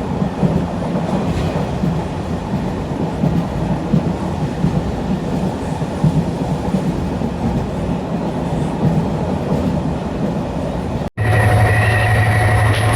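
Local passenger train running: a steady rumble and rattle of the carriages. About eleven seconds in it cuts off suddenly to a steady engine hum with a high held tone.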